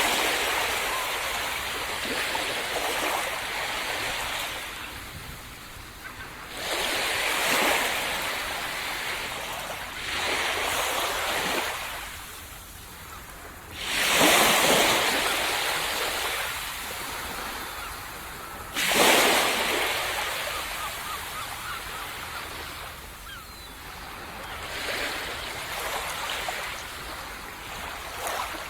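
Waves breaking on a tropical beach. A rush of surf comes every three to five seconds, rising suddenly and then fading away.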